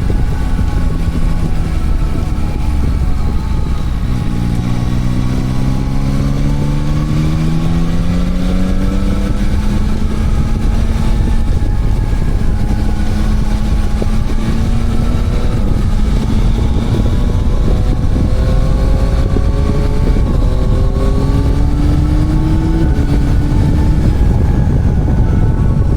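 Motorcycle engine under way, rising in pitch as it accelerates about four seconds in and again later, with level cruising stretches between, over a steady low rumble.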